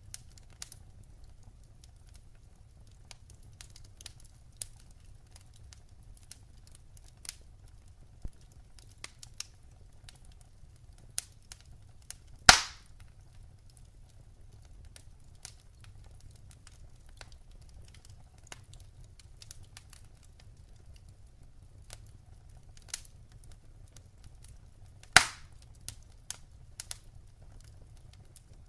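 Wood fire burning in a fireplace: scattered small crackles and snaps over a low, steady rumble, with two loud pops about twelve seconds in and again near the end.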